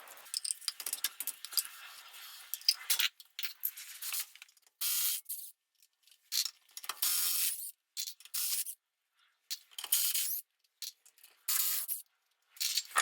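Aerosol spray-paint can spraying in a series of short bursts, each about half a second to a second long, with small clicks and rattles between bursts.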